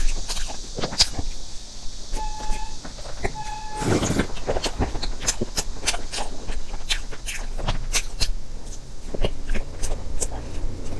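Close-up mouth sounds of chewing soft layered cream cake: many short wet smacks and clicks. Two short beeps about a second apart come a couple of seconds in, and a brief rush of noise follows at about four seconds.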